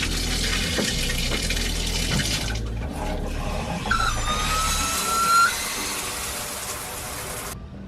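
Water running steadily, cutting off suddenly near the end, with a brief high tone partway through.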